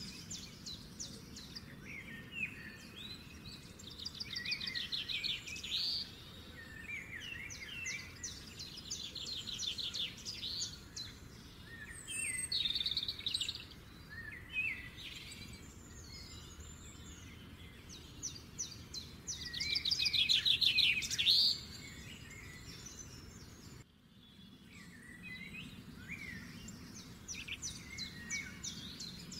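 Small songbirds chirping and singing, in repeated phrases of quick high trills and short whistled notes, over a low steady hiss. There is a brief cut-out near the end.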